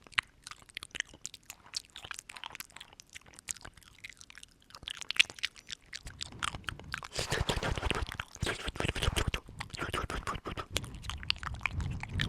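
Close-miked ASMR mouth sounds: scattered wet clicks and smacks that turn denser and louder about halfway through.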